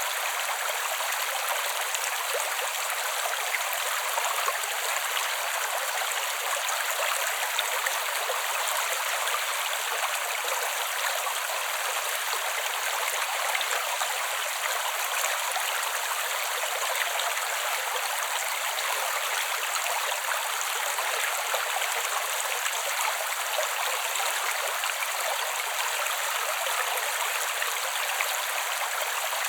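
Small creek flowing steadily: an even, unbroken rush of running water, light and hissy, with no low rumble.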